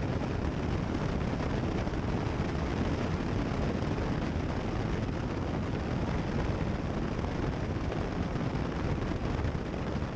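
Steady drone of a Cessna 172 Skyhawk in flight, engine and cabin noise heard through the headset intercom feed.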